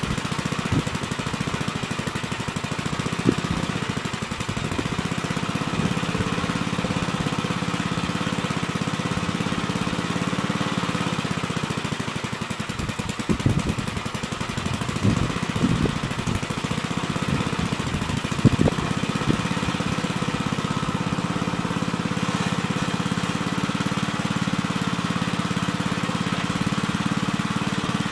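Gravely Terramite compact backhoe's engine running steadily, with a handful of short sharp clunks, most of them in the middle, where the engine note wavers briefly.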